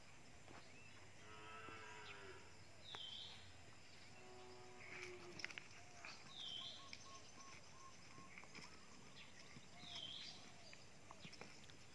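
Faint outdoor ambience: a bird gives the same short call about every three and a half seconds, and two drawn-out animal calls sound in the first five seconds, with a few light clicks.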